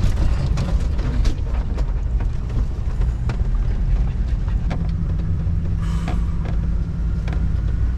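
RV driving over a bumpy, potholed road: a steady low rumble of engine and road noise, with frequent sharp knocks and rattles as it jolts over the bumps.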